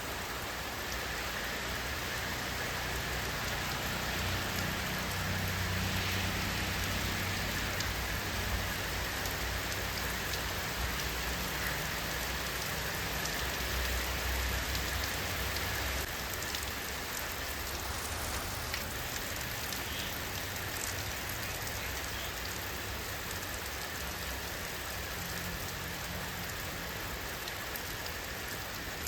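Steady rain falling, an even hiss with scattered drop ticks, over a low rumble that swells a few seconds in and eases off about halfway through.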